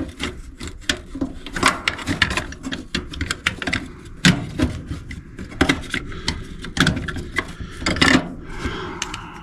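Sheet-metal cover panel of an electric furnace being handled and fitted back into place: an irregular run of clicks, knocks and scraping.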